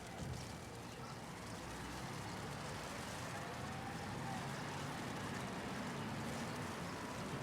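City street traffic ambience: vehicle engines running and passing over a steady hiss of falling hail, with a faint rising whine about halfway through.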